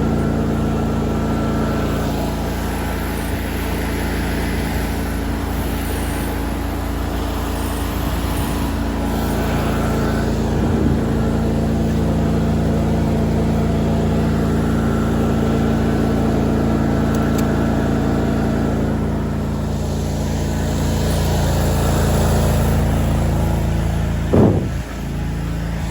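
Lawn mower engine running steadily under load while mowing, with a brief loud blip near the end.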